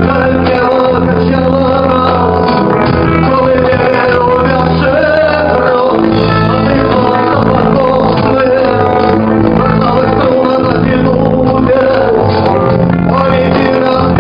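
A band playing live: a steady bass line under a wavering lead melody.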